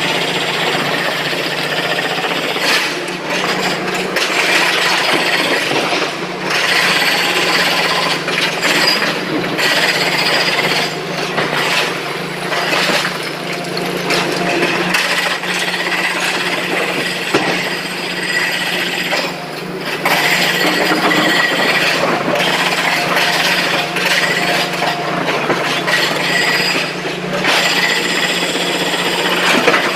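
SANY excavator at work: a diesel engine running at a steady pitch under continuous rattling, scraping and clanking of machinery and rock.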